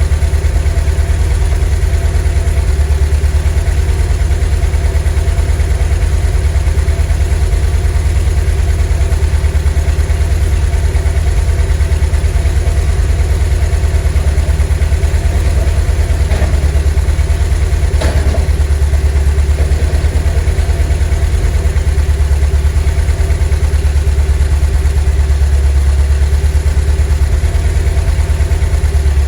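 VW T3 bus's 2.1-litre water-cooled flat-four (Wasserboxer) engine idling steadily, an even low throb with no revving.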